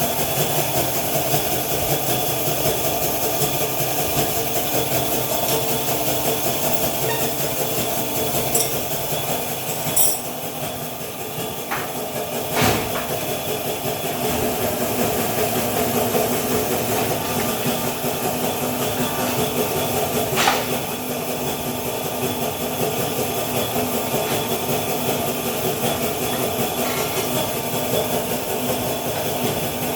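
Tube bending machine running steadily while a stainless steel exhaust link pipe is bent, with a few sharp metal clunks, one about ten seconds in, one a few seconds later, and one past two-thirds of the way through.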